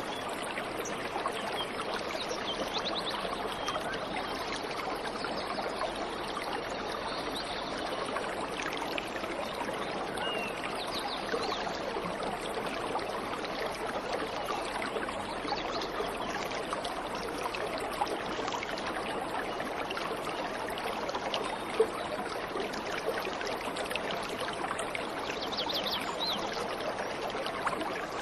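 Waterfall or stream water rushing steadily, with a few faint high bird chirps now and then and one brief click about two-thirds of the way in.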